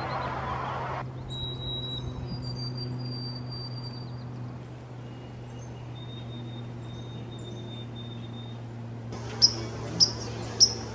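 Small birds calling: thin, drawn-out high whistles through the middle, then a run of sharp, loud chirps about every half second near the end.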